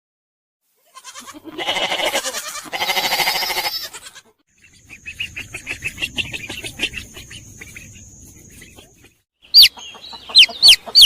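Lovebirds calling: a harsh, raspy screech in two stretches, then fast clicking chatter. Near the end come loud, shrill chirps, about two a second.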